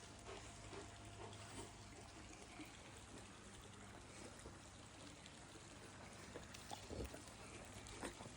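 Near silence: faint room tone with a low hum and a few scattered soft clicks, slightly busier near the end.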